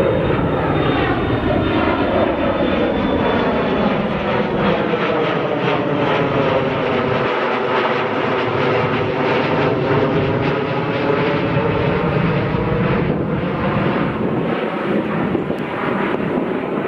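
Airliner passing low overhead, its engines running loud and steady, the sound sweeping in pitch as the aircraft goes by.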